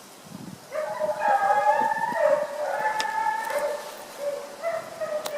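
A pack of foxhounds baying on a fox's trail: several hound voices join in about a second in and carry on in long, overlapping held notes.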